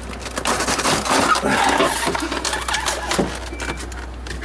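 Plastic evaporator cover inside a Samsung French door refrigerator being pried and pulled free, a rapid run of crackling, clicking and scraping that quiets near the end. The evaporator behind it is iced up, the fault that leaves the fridge side not cooling.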